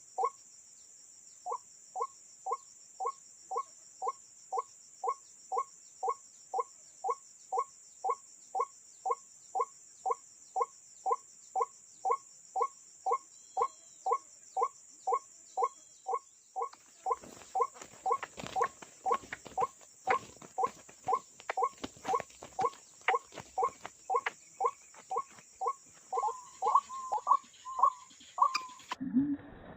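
A short animal call repeated evenly about twice a second over a steady high-pitched whine, with sharp clicking and tapping joining in about halfway through; the calls come faster just before the sound cuts off near the end.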